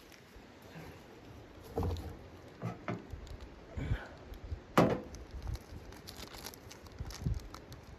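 A few irregular knocks and thumps, the sharpest about five seconds in.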